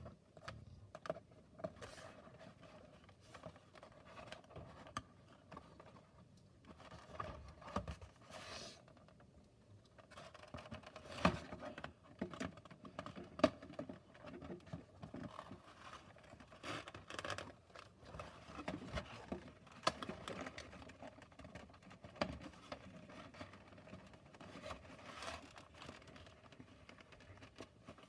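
Cardboard playset pieces being handled and fitted together by hand: scattered light taps, scrapes and rustles of cardboard, with two sharper knocks near the middle. A faint steady hum runs underneath.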